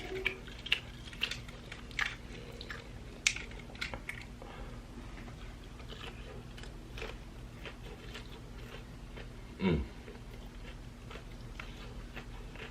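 Close-up chewing and biting of crispy breaded fried chicken tenders, with irregular crunches between quieter chewing. There is a brief low voice sound about ten seconds in.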